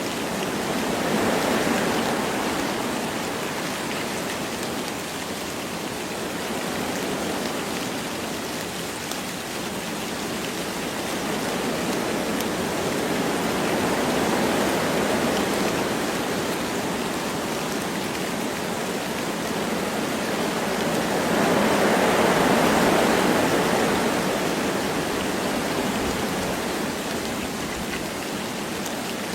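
Wind blowing through forest trees with light rain falling: a steady rushing hiss that swells in slow gusts, once near the start, again midway, and most strongly about three quarters of the way through.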